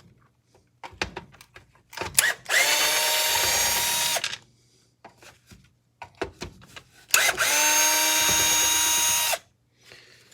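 Power drill-driver backing screws out of a miter saw's housing: the motor whines steadily in two runs of about two seconds each, with small clicks and knocks of handling between them.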